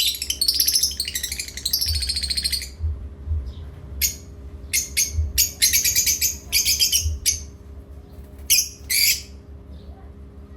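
Pet parrots chirping: a long run of rapid, high chirps over the first couple of seconds, then short chirps in scattered groups that stop about nine seconds in. A low, steady hum lies underneath.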